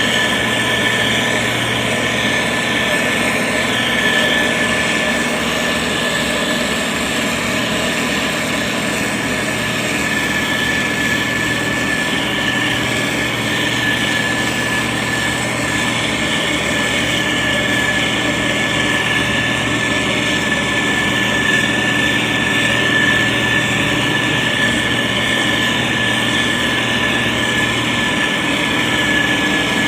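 Diesel engine of a SANY STG190C-8S motor grader running steadily, with a constant low hum and a steady high-pitched whine over it.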